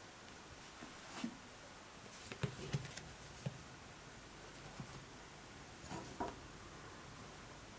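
Faint room hiss with a few light knocks and rustles: one about a second in, a small cluster between two and three seconds in, and a couple more around six seconds in.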